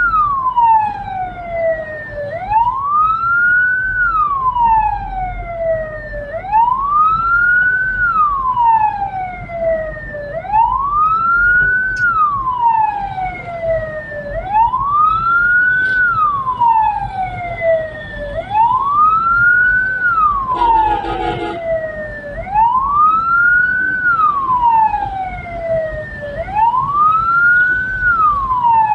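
Hearse's electronic siren wailing, its pitch rising and falling about once every four seconds, over a low engine and road rumble. A short burst of noise cuts in about two-thirds of the way through.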